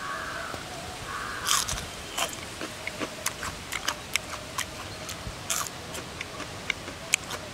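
Crispy bitter gourd chip being bitten and chewed: a run of sharp, irregular crunches starting about a second and a half in.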